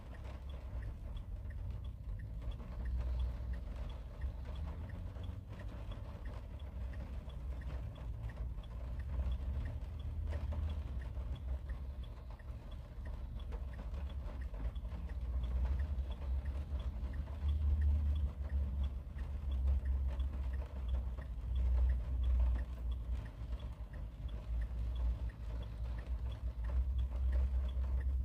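Rain falling on a car's roof and windshield, heard from inside the cabin: a dense, irregular run of drop taps over a low, uneven rumble, louder in the second half.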